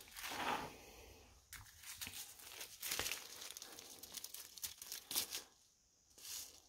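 Small plastic bags crinkling as they are handled, in short irregular bursts.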